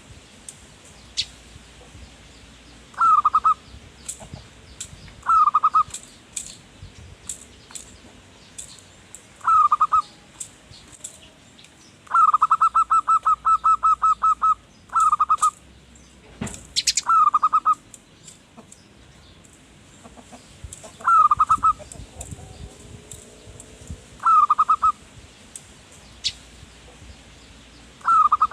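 Zebra dove (perkutut) cooing: short, rolling, trilled phrases repeated every two to three seconds, with one longer run of rapid pulses in the middle. A sharp click sounds once, a little past halfway.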